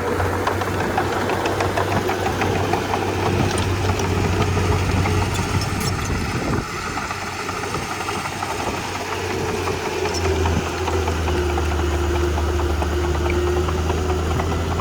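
Komatsu D31P bulldozer's diesel engine running steadily, with a deeper, stronger drone setting in about ten seconds in and scattered light clicks and clanks midway.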